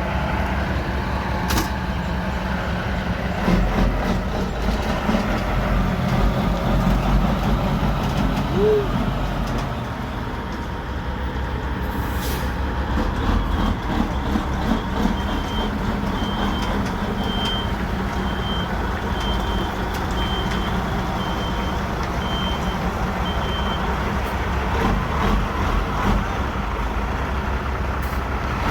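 Heavy dump truck's Caterpillar 3406 diesel engine running, with a short hiss about twelve seconds in. Midway through, a reversing alarm beeps about nine times, roughly once a second.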